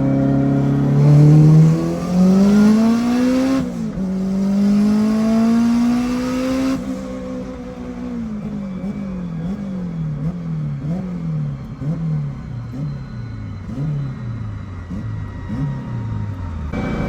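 Turbocharged Honda K20 four-cylinder engine under hard acceleration on about 20 psi of boost. The revs climb, drop sharply at a gear change about four seconds in and climb again, then the throttle closes about seven seconds in and the revs fall away in a quick, repeated up-and-down wavering.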